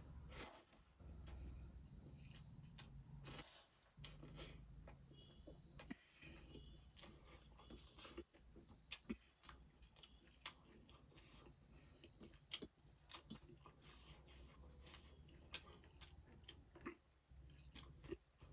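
Close-miked eating: a man chewing and smacking his lips through a mouthful of rice and pork curry, with many short sharp clicks scattered irregularly and a couple of louder bursts in the first four seconds. A steady high-pitched drone runs underneath.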